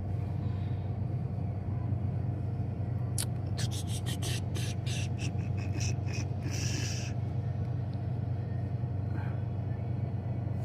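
Steady low hum, with a quick run of crisp crackles about three seconds in and a short rustle a little later: a small chip bag being picked up and handled.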